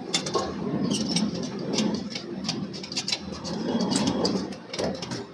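Forge-shop machinery running, a steady mechanical rumble with irregular sharp metallic clanks and knocks.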